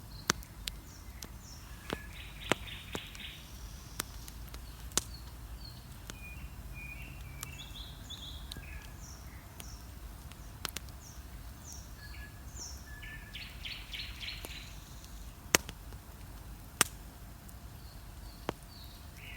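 Wood bonfire crackling, with sharp sudden pops every second or few, over dawn birdsong: several birds singing short phrases and trills.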